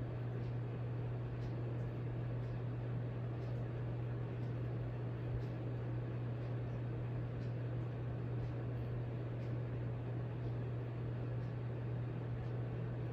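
Hampton Bay Minuet II ceiling fan running steadily, its motor giving a low, even hum over a soft rush of air, with a faint tick about once a second.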